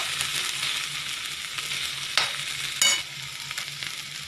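Samosa potato filling sizzling in hot oil in a metal kadhai while it is stirred with a metal spatula. A little past two seconds in, the spatula clinks twice against the pan, the second clink ringing briefly.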